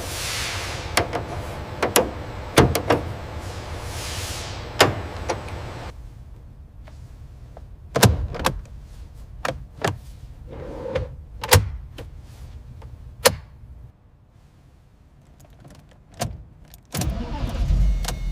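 Sharp clicks and knocks of work on a car, with a hiss over the first few seconds. About a second before the end, a loud low rumble starts and keeps going.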